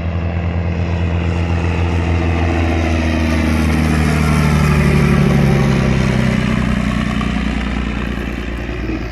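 Vintage piston-engined aircraft flying past, its engine drone building to its loudest about halfway through and then dropping in pitch and fading as it passes.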